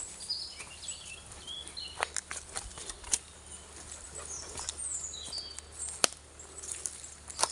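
Small birds chirping in woodland, with a few sharp snaps or cracks, like footsteps breaking twigs on the forest floor.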